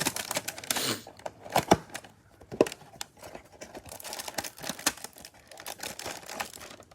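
Trading-card packaging crinkling and tearing as a hanger box is opened, with a string of small clicks and rustles from the cards being handled; the busiest rustling comes in the first second.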